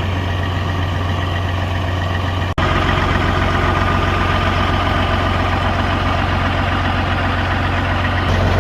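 Diesel semi-truck engine idling steadily, with a brief dropout about two and a half seconds in.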